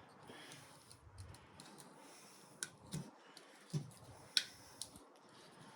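Wire cutters snipping the radial arm saw motor's wires: about five faint, sharp clicks spread over two seconds, starting a little past two seconds in.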